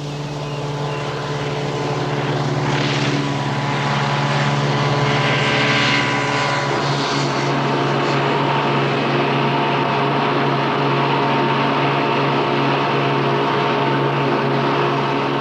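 A steady engine drone with an unchanging hum, getting louder over the first few seconds and then holding steady.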